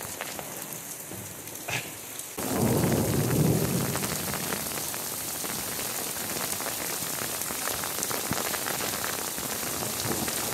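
Heavy rain, first faint and muffled as heard from indoors, then after about two seconds suddenly loud and close, hissing on a wooden deck and shingle roof and streaming off the eaves. A low rumble comes with the loud rain for a second or so as it begins.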